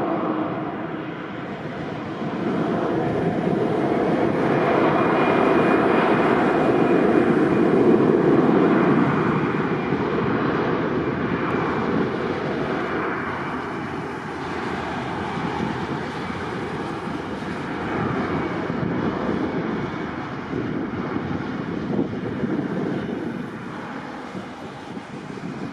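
Jet airliner engines running, a steady roar that swells to its loudest about eight seconds in and then slowly fades.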